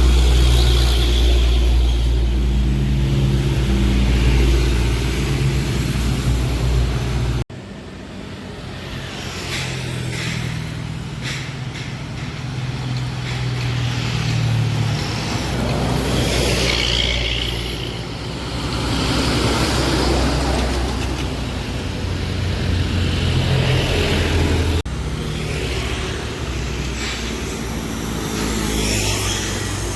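Diesel engines of heavily loaded trucks pulling up a steep grade, a steady low drone with traffic noise; the sound breaks off abruptly twice, about seven seconds in and near the end, as one truck's climb gives way to another.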